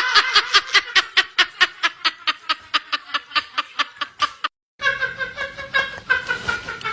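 Rapid rhythmic laughter, about five 'ha' pulses a second, running for about four and a half seconds before it cuts off abruptly. After a brief silence, a different voice-like sound with held pitched tones follows.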